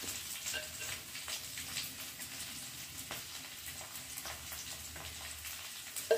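Onions and capsicum frying in hot mustard oil in a kadai: a steady light sizzle with scattered crackles and pops. A short knock comes right at the end.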